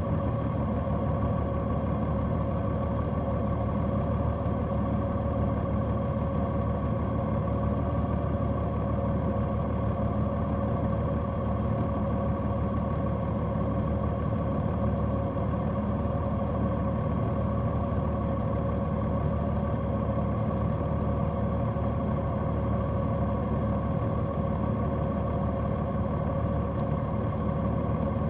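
Large motorcycle's engine running at a steady, unchanging speed, a constant drone with no revving.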